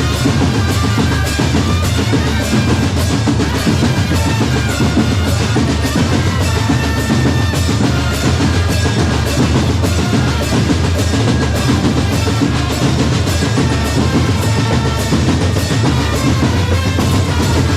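Drum corps playing: bass drums and snare drums keep a steady, dense beat with rolls, under a held melodic line.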